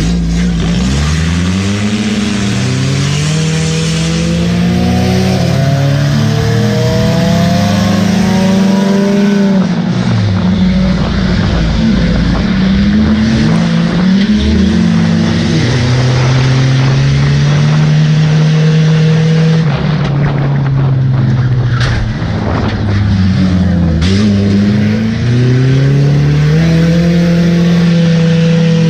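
The race car's engine heard from inside the cabin, revving up and falling back again and again as the driver accelerates down the straights and lifts for the turns. A few sharp knocks come in the second half.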